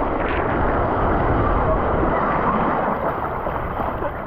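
Steady rush of water on a water-park mat racing slide, with wind buffeting the microphone.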